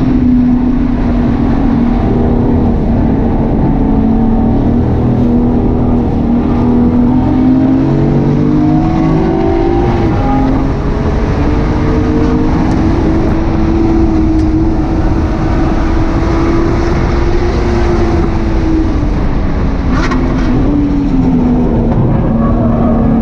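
BMW 135i's single-turbo 3.0-litre straight-six being driven hard on track. Engine pitch climbs, holds steady for several seconds, drops about three seconds before the end, then picks up again, over a constant bed of road and wind noise.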